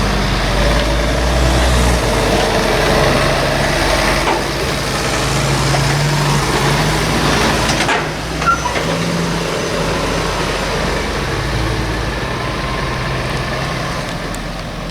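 A vehicle engine running under way with road noise, its pitch stepping up and down as the vehicle drives; a brief dip and a sharp knock come about halfway through.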